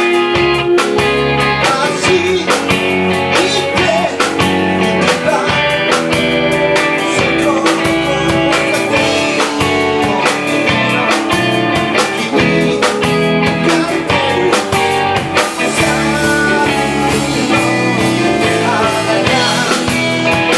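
A live blues-rock band playing: guitar over bass and drums with a steady beat, with singing.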